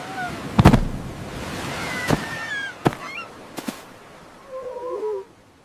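Four sharp knocks or thuds, the first and loudest less than a second in, then roughly a second apart. Over a steady hiss, short bird-like calls slide up and down in pitch, with a last pair of calls near the end.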